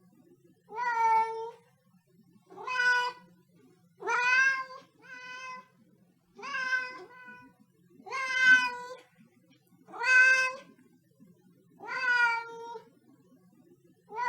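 Siamese cat meowing over and over: a drawn-out meow about every two seconds, each lasting about a second, with one quick double call a little after four seconds in.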